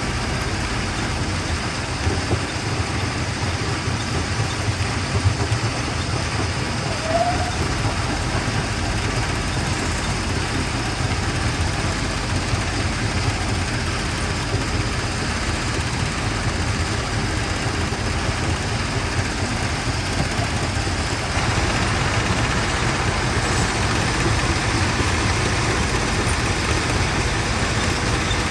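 Quarry primary jaw crusher running: a steady, loud mechanical rumble with engine drone. About three quarters of the way through, the noise grows a little louder and brighter.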